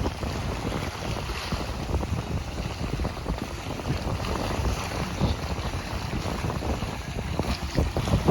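Sea waves washing onto the beach, with wind buffeting the microphone as a low rumble. The sound swells louder near the end.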